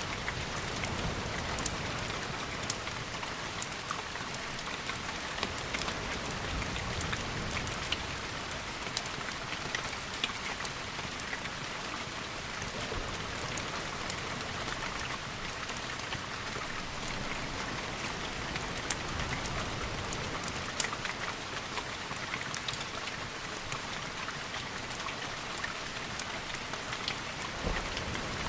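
Steady rain, with scattered sharp ticks and a low rumble that swells and fades a few times.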